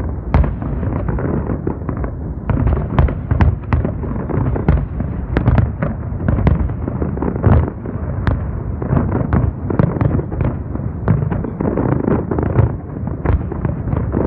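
Fireworks display going off in a dense barrage: several sharp bangs a second over a continuous low rumble of bursts.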